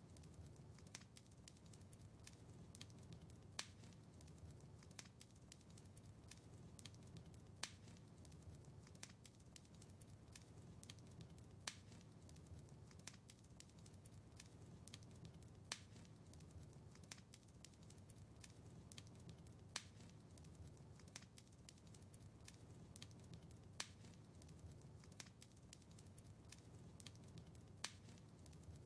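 Wood fire crackling in a fireplace, faint: a steady low rumble of flames with many small snaps and a sharper pop about every four seconds.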